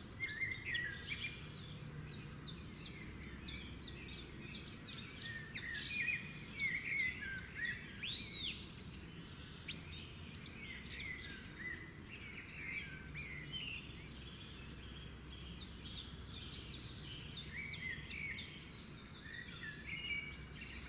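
Several small birds chirping and twittering continuously in quick, high, sweeping notes, over a steady low background rumble.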